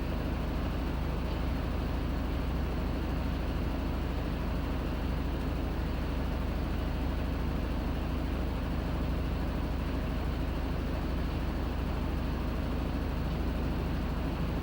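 Panasonic NA-FA100H9 top-loading washing machine running, a steady low hum and whir that holds even, with no pauses or changes.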